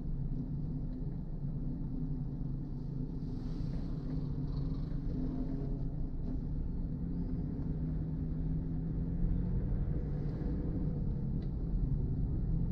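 Car driving on a rain-wet road: a steady low rumble of engine and tyre noise, with a brief higher hiss swelling up about three seconds in and again near ten seconds.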